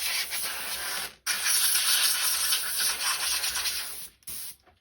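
Compressed-air blow gun on a workshop airline hissing in blasts, blowing years of dirt and cobwebs out of a strimmer's recoil starter. One blast cuts off about a second in, a longer one follows, and a short last puff comes near the end.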